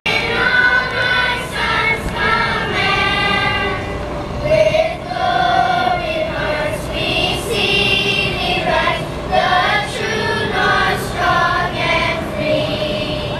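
A choir singing, voices holding long notes.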